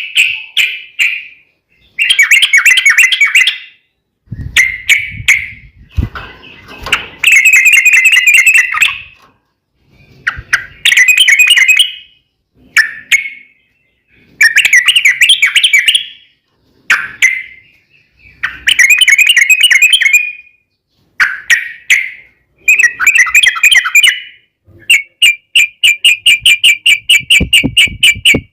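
Yellow-vented bulbul (trucukan) song: loud bubbling, chattering phrases of a second or two, one after another with short pauses. Near the end comes a fast even run of sharp repeated notes.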